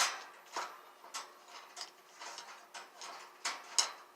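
Metal clicks and clinks from a hook-on perch's threaded knob being turned tight against the bars of a wire bird cage, in a string of sharp clicks about every half second.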